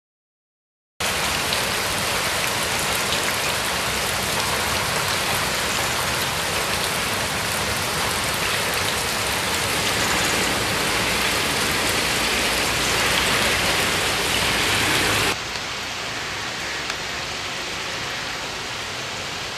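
Heavy rain pouring down, a steady dense patter that starts abruptly about a second in. Near the end it turns quieter and duller, heard from indoors through a closed window.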